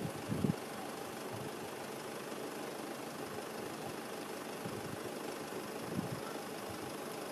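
Steady hiss of aircraft engines running, with a few short low thumps of wind buffeting the microphone, once about half a second in and again near six seconds.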